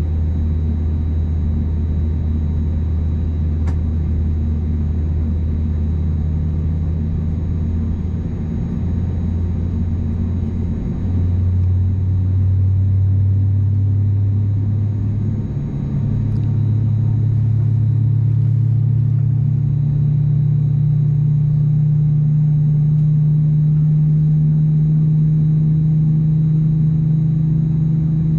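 Airbus A320neo's CFM LEAP-1A engines heard from inside the cabin: a steady low hum whose pitch steps up several times, about a third and again about half-way through, getting a little louder.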